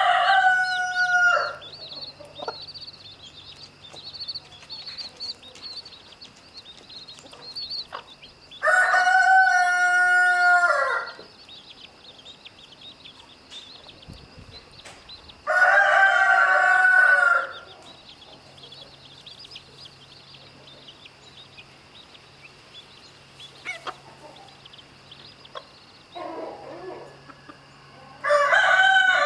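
Rooster crowing over and over, each crow about two seconds long, with four or five crows spaced several seconds apart. Underneath runs a steady high peeping from chicks.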